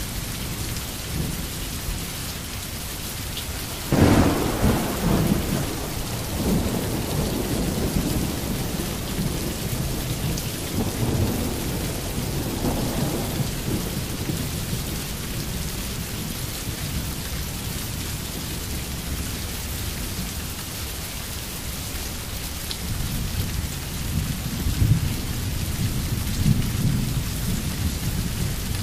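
Steady rain with thunder: a sudden loud clap about four seconds in that rumbles on for several seconds, then another low rumble near the end.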